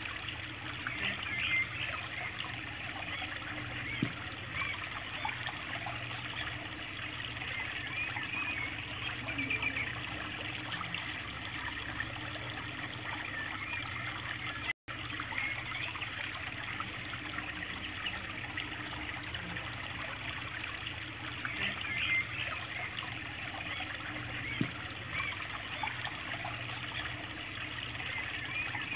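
A small stream of water trickling steadily from a thin plastic tube onto wet sand, fed by a DIY toy tractor water tanker's pump, with a faint steady low hum underneath. The sound cuts out for a split second about halfway through.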